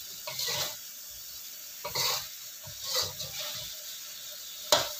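Rendang sizzling in a wok as its coconut milk cooks down to oil, with a metal spatula stirring and scraping through it several times. A sharp clank of the spatula against the wok near the end is the loudest sound.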